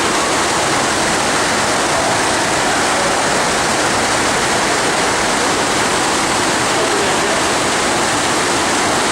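Steady, loud rush of water from a FlowRider wave machine, its pumps driving a thin sheet of water up the padded surf ramp.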